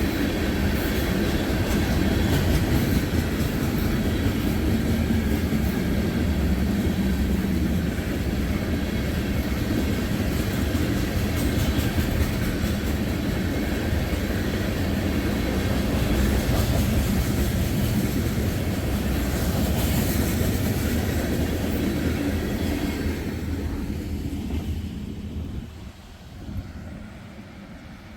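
Loaded freight train cars rolling past, the wheels rumbling and clacking on the rails, the sound dropping away near the end as the last of the train goes by.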